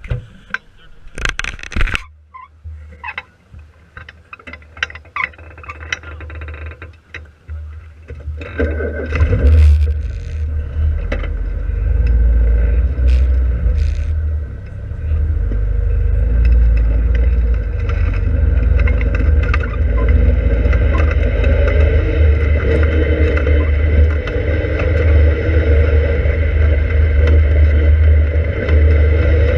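Open-cockpit kit car's engine running, heard from a camera mounted on the car. For the first several seconds a low idle sits under knocks and scrapes as the camera is handled. From about 8 seconds in the engine gets louder and holds steady as the car drives off at low speed, with a heavy low rumble.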